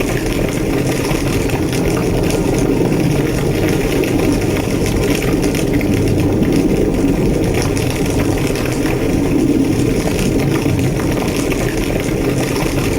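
Large structure fire roaring steadily, a dense low rumble, with scattered crackles over it.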